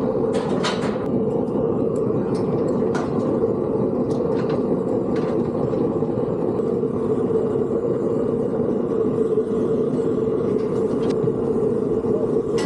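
An engine running steadily with a low drone, with a few short knocks and clicks, a cluster of them about a second in.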